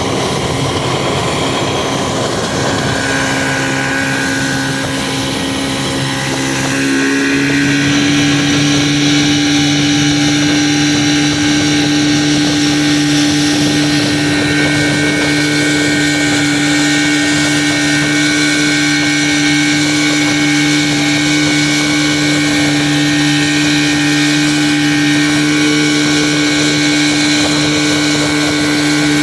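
Motorboat engine running under way while towing a banana boat, with water and wind noise. About a quarter of the way in it speeds up slightly and gets louder, then holds a steady pitch.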